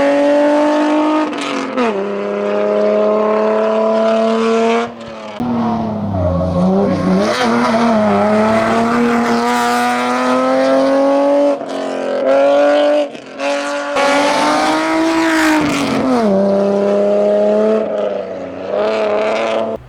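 Race car engine at high revs under hard acceleration. Its pitch climbs and then drops sharply at each gear change, with brief lifts off the throttle.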